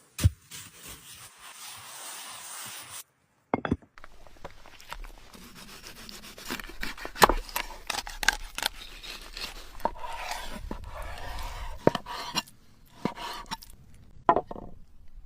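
Kitchen utensils scraping, clinking and knocking during fish preparation, in many irregular sharp strikes. For the first three seconds there is a steady hiss that cuts off suddenly.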